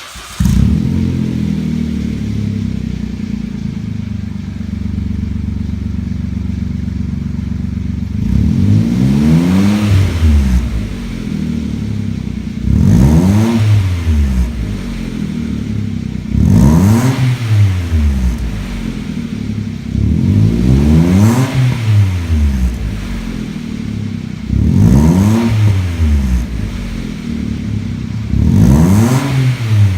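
Kia Ray Bi-Fuel's small three-cylinder engine breathing through a custom open intake and a torque-muffler exhaust. It idles steadily, then is blipped six times, about every four seconds, each rev rising and falling back to idle.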